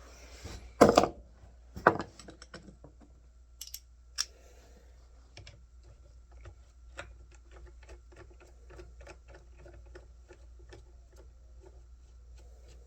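Two loud knocks about a second and two seconds in, then a long run of light, even clicks, about three a second: a ratchet wrench backing off the chainsaw's bar nut.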